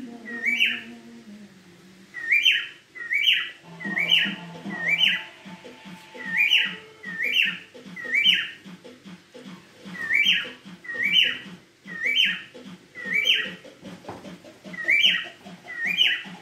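Cockatiel calling over and over with short, shrill whistled notes, each a quick upward swoop, about one a second with a few short pauses. Low, steady tones run underneath.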